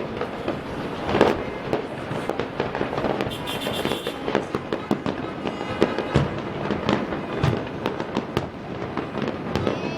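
Fireworks display: a steady string of bangs and crackles in quick succession, the loudest bang about a second in.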